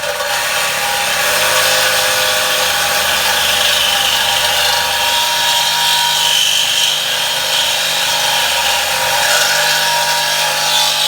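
A power tool cutting through a pickup truck's exhaust pipe to remove the old exhaust tip. It runs steadily at an even pitch with a continuous ringing whine.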